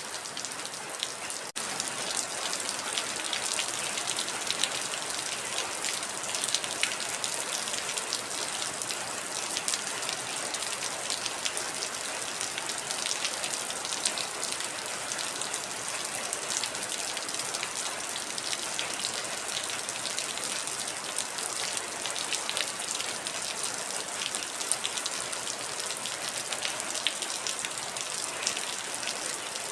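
Heavy rain falling steadily, a dense hiss of drops with countless small individual taps. A brief break comes about a second and a half in, after which it is slightly louder.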